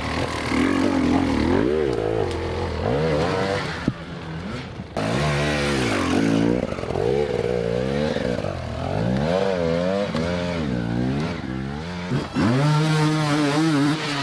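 Off-road motorcycle engines revving hard, the pitch swooping up and down again and again as the throttle is worked. There is a brief drop and break about four to five seconds in.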